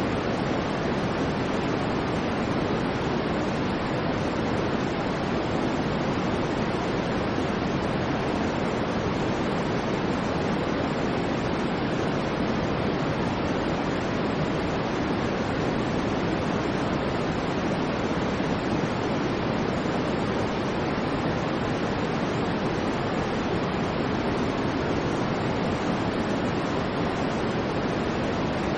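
Steady synthetic white noise, an even, unbroken hiss that is heavier in the low and middle range than at the top, with no swells or changes.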